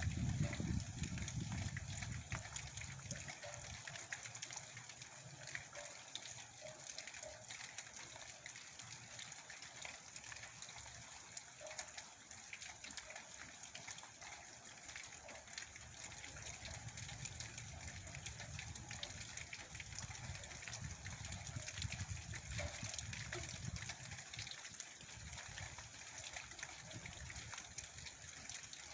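Steady rain falling, a dense patter of drops. A low rumble is strong at the start, dies down over the first few seconds, and swells again in the second half.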